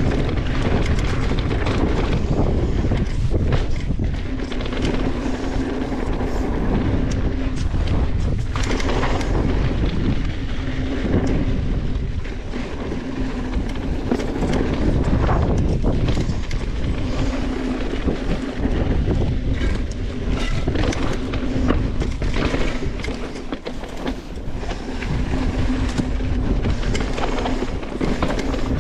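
Mountain bike riding down a dirt and rock trail: tyres rumbling over the ground, the bike and chain rattling and clattering over bumps, with wind buffeting the microphone.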